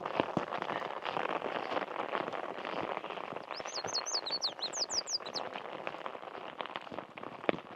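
Light rain pattering, with a steady hiss full of small drop clicks. A bird sings a quick run of high chirps a few seconds in.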